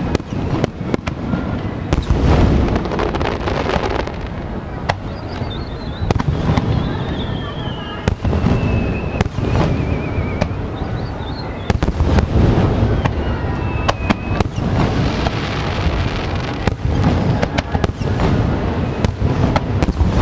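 Aerial fireworks shells bursting in rapid succession: sharp cracks and deep booms that overlap into a continuous rumble. A long wavering whistle falls slowly in pitch partway through, and a shorter one follows soon after.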